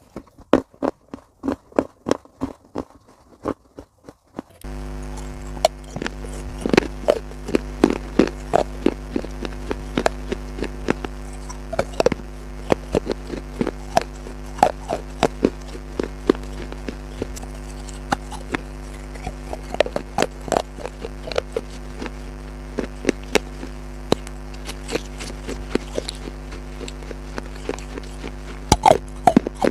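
Crunchy food being bitten and chewed close to the microphone: irregular sharp crunches and crackles, several a second. About four seconds in, a steady low hum starts underneath.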